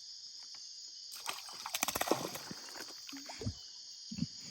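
Steady high-pitched insect chorus. Over it come a quick run of knocks and water sloshing against a small boat about two seconds in, and a couple of softer thumps near the end.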